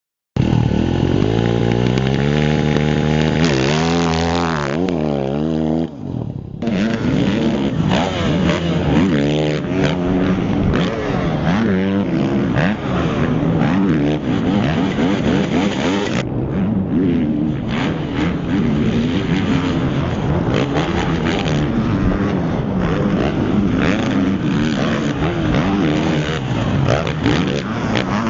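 Motocross motorcycle engine being revved, its pitch rising and falling, then after a brief dip about six seconds in, running hard at high revs on the track, the pitch climbing and dropping with throttle and gear changes.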